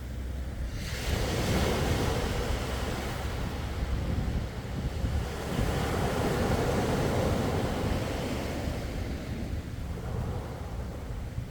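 Sea waves surging and washing ashore in two swells, one rising about a second in and another around the middle, then fading. A low rumble of wind on the microphone runs underneath.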